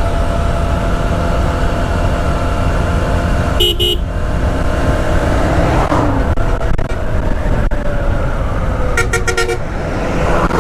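Steady wind and road rumble of a motorcycle ride on a highway, with a vehicle horn tooting briefly about three and a half seconds in and again as a quick string of rapid beeps about nine seconds in.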